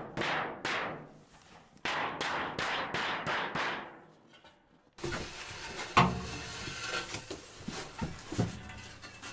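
Hammer blows struck in a steady rhythm, about three a second, each ringing briefly, with a short pause about a second in. About five seconds in the sound cuts to a quieter room with a few scattered knocks and thuds.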